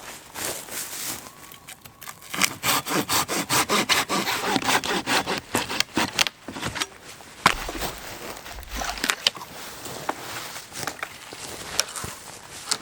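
Hand saw cutting through a branch for firewood in quick, even strokes, about four a second, for several seconds, followed by scattered cracks and knocks of wood.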